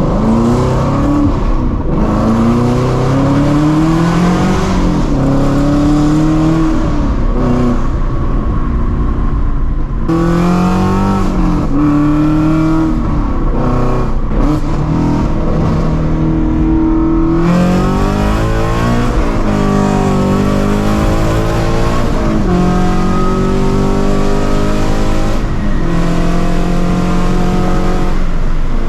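2016 Shelby GT350's 5.2-litre flat-plane-crank V8, straight-piped through long-tube headers with no catalytic converters, accelerating hard. It revs up through the gears several times, with the pitch dropping at each shift, and holds steadier engine speeds in between.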